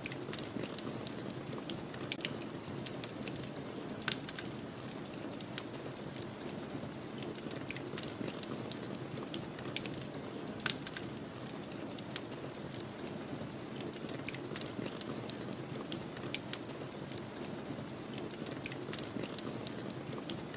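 Wood fire crackling, with irregular sharp pops and snaps scattered over a steady low rumble of snowstorm wind.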